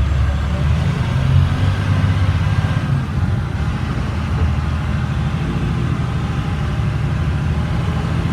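International DT466 inline-six diesel engine running as the 2007 International 4400 dump truck drives off, a steady low rumble heard from the cab. The automatic transmission shifts from first to second smoothly, with the engine note easing slightly about three seconds in.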